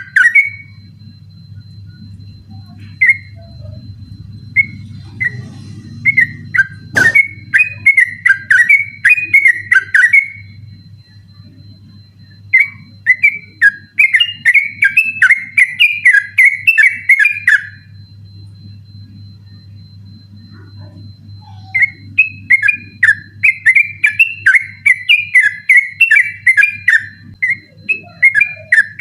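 Yellow-vented bulbul (trucukan) singing its rapid rolling, chattering song in three long bouts, with a few single notes in between. A low steady hum and one sharp click about seven seconds in lie beneath it.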